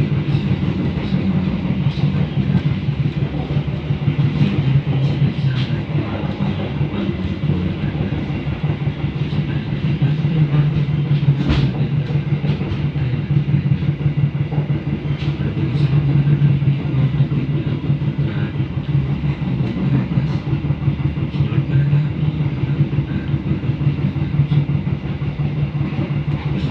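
Passenger train running, heard from on board: a steady low rumble and hum, with wheels clicking over the rail joints and a sharper knock about eleven seconds in.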